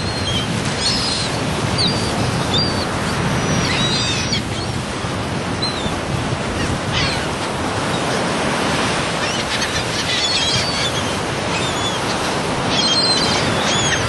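Steady surf and wind noise, with short high seagull cries heard now and then through it.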